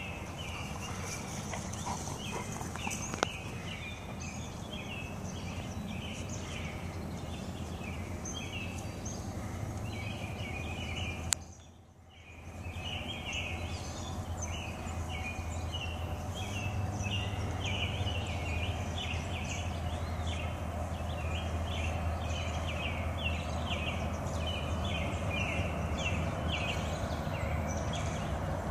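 Birds chirping over and over, over a steady low background rumble. The sound drops out briefly, just after a click about eleven seconds in.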